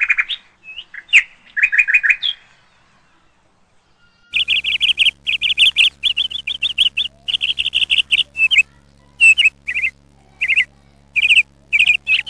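A bird chirping in quick runs of short trilled notes, pausing briefly about two seconds in and then chirping almost continuously, with a steady low hum underneath from about four seconds in.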